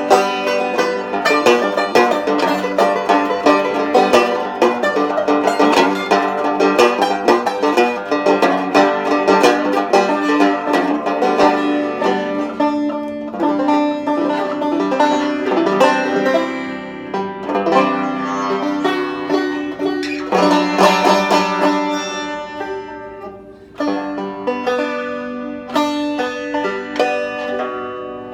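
Banjo music: fast plucked picking of many notes, briefly dropping away about three-quarters of the way through before the playing resumes.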